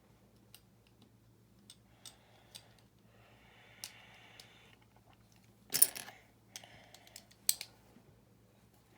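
Plastic building bricks being handled and pressed together: scattered small clicks and clatters, with a soft rustle of pieces in between and the loudest clicks about six and seven and a half seconds in.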